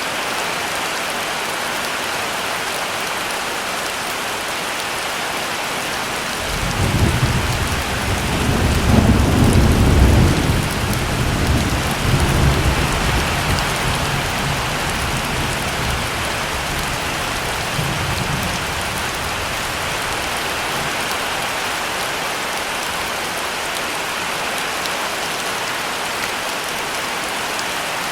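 Heavy rain falling steadily. About six seconds in, a long low rumble of thunder starts. It is loudest a few seconds later, then fades out by around nineteen seconds, leaving the rain alone.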